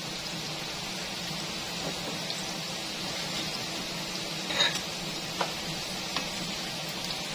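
Cubed potatoes and carrots sizzling steadily in hot oil in a frying pan, with a few short sharp clicks, the loudest about four and a half seconds in.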